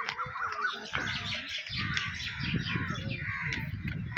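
Many small birds chirping and twittering at once in quick, overlapping calls, with a low rumble underneath from about two seconds in.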